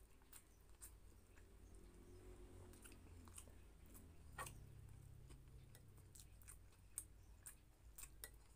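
Faint close-up chewing with scattered wet mouth clicks and lip smacks: a person eating soft tuna stewed in coconut milk. One click about halfway through stands out, and several come close together near the end.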